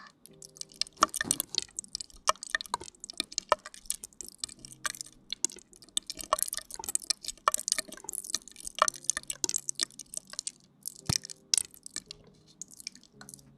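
Close-miked ASMR wet mouth sounds: a dense, irregular run of sharp sticky clicks and pops, several a second.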